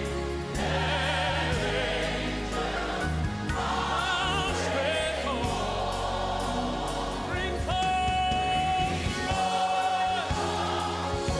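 Choir singing a hymn in long, held notes with vibrato, over a steady low accompaniment.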